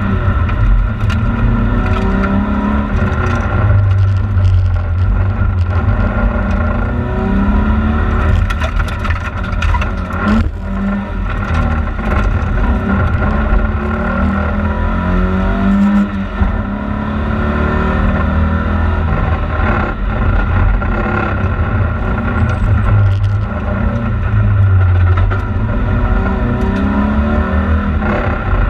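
Volvo 940 rally car's engine heard from inside the cabin at full effort, its pitch climbing and dropping again and again through gear changes and braking for corners, over steady tyre and road noise. A few sharp knocks come about a third of the way in.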